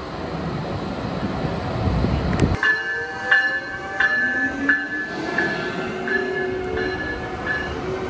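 A train rumbles heavily past for the first two and a half seconds, then stops abruptly. After that a locomotive bell rings with evenly spaced strikes about every 0.7 s, over an electric train's motor whine rising slowly in pitch as it pulls away.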